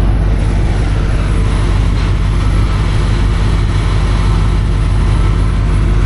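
Heavy vehicle engine running steadily at an even speed, a constant low drone.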